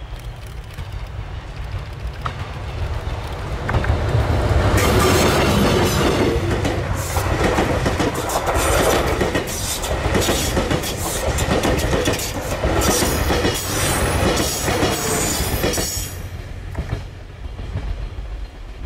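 A diesel-locomotive-hauled passenger train approaching and passing close by. The engine rumble builds and gets loud about four seconds in as the locomotive goes past, then the cars' wheels clatter rapidly over the rails. The sound fades away about sixteen seconds in.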